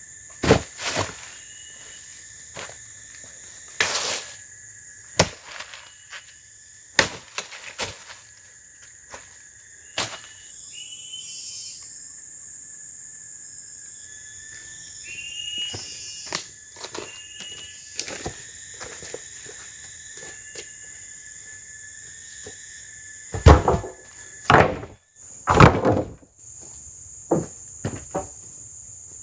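Steady, high chirring of forest insects, with a series of sharp knocks and taps scattered through it. A cluster of louder knocks comes near the end.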